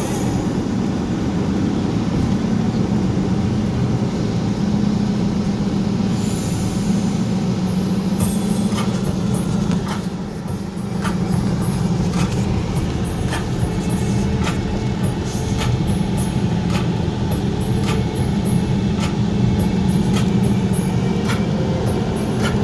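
Steady low rumble of a car's engine and tyres heard from inside the cabin while driving on a snowy road. From about a third of the way in, sharp ticks come roughly once a second.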